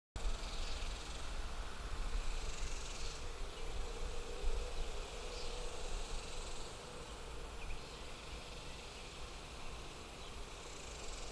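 A faint insect chorus, with higher buzzing that swells and fades every couple of seconds, over a low rumble.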